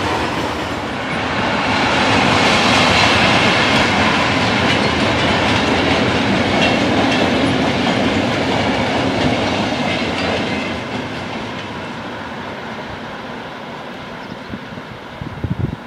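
Freight train of hopper wagons rolling past on the rails, its wheel noise steady at first and then fading away over the last few seconds as the train recedes.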